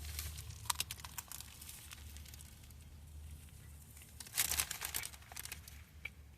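Paper sandwich wrapper crinkling as it is handled and unwrapped, in two spells of rustling: a short one near the start and a louder one past four seconds in.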